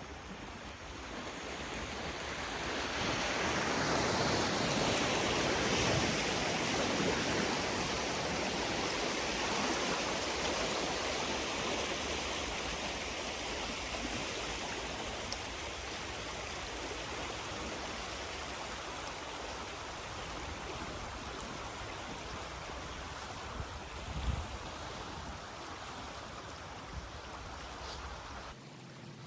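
Water rushing through a breached beaver dam. It swells over the first few seconds, then flows steadily, with a brief thump about 24 seconds in, and drops off suddenly near the end.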